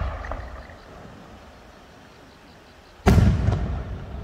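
Aerial firework shells bursting overhead. A sharp boom comes right at the start and trails off in a low rumble, then a louder boom about three seconds in rolls and echoes, with a smaller crack half a second after it.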